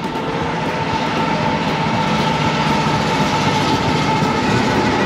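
Diesel-hauled double-stack container freight train passing close by: the locomotive's engine and the wheels on the rails make a steady loud rush that builds over the first second and then holds, with a steady high whine running through it.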